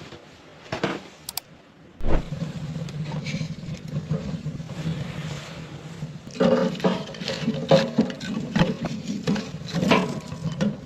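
Cookware and utensils being handled: sharp knocks, clatter and scraping, thicker in the second half, over a steady low hum.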